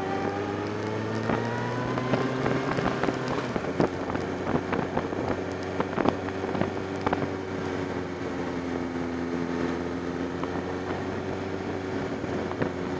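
Sport motorcycle engine running under way, heard close from a camera mounted on the bike. Its pitch rises over the first couple of seconds as it speeds up, then holds roughly steady, with wind rushing over the microphone and scattered sharp clicks from the mount.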